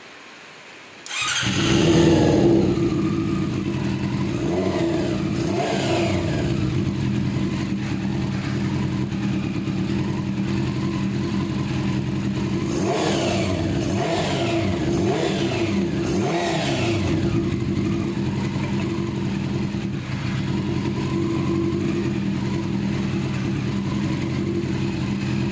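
Honda CBR400RR NC23 inline-four motorcycle engine starting about a second in, then idling. The throttle is blipped into short revs a few times, with pitch rising and falling, before it settles back to a steady idle.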